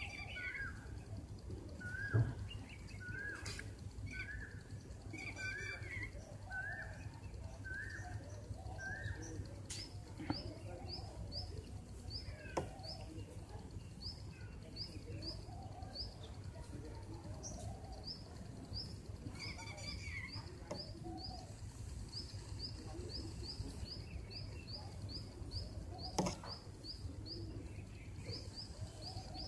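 Birds chirping: a short rising note repeated about once a second, then from about ten seconds in a higher, quicker chirp repeated two or three times a second. A steady low hum and a few sharp clicks lie underneath.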